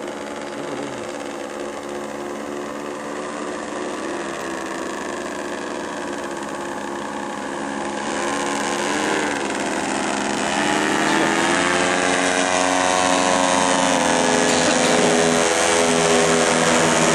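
Paramotor engine and propeller running, its pitch swinging up and down about halfway through as the throttle is worked, then getting louder and holding at a higher, steady pitch.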